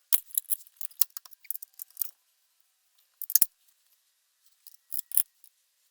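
Metal clicks and knocks of a bolt and tools being handled, a quick cluster in the first two seconds and two louder knocks later, as a lower shock mounting bolt is worked into place.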